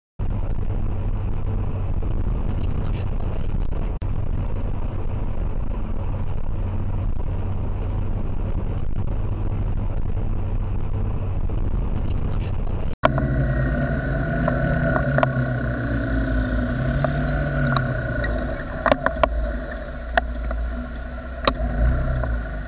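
Motorcycle engine running under a steady roar of wind and road noise. After a sudden cut about halfway through, an engine whose pitch rises and falls, with several short sharp knocks near the end.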